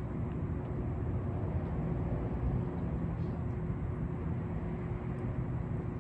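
Steady low rumble of outdoor background noise, vehicle-like, with a faint steady hum.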